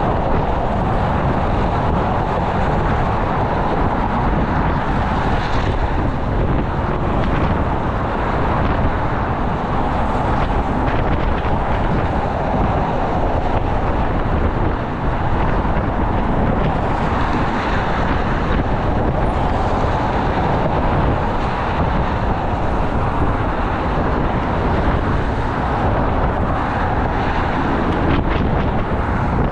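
Steady, unbroken road traffic noise with wind rumbling on the microphone.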